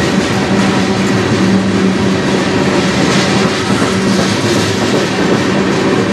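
CN freight train cars rolling past at close range, covered hoppers and then tank cars, with a steady rumble and rattle of steel wheels on the rails.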